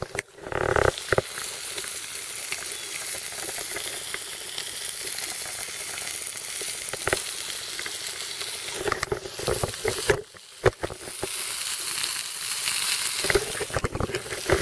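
Spam sizzling as it fries in a small titanium bowl over an alcohol stove, with a few knocks and clicks against the bowl. The sizzle breaks off briefly about ten seconds in.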